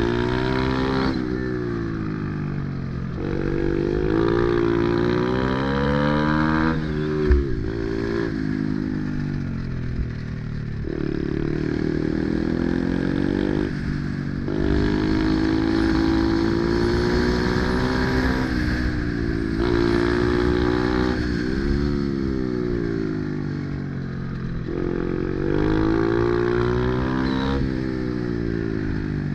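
Pit bike's small single-cylinder engine revving up and dropping back again and again as it accelerates, shifts and slows. There is a sharp knock about seven seconds in.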